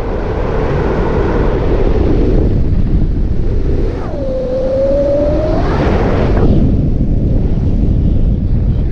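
Heavy wind buffeting the microphone, with a paramotor engine's note dropping sharply about four seconds in, holding low, then climbing again as the throttle opens.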